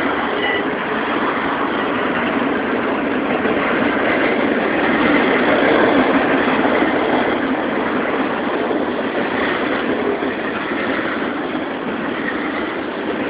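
Union Pacific intermodal train's container cars rolling past on the rails, a loud steady rush of wheel and rail noise that swells a little midway.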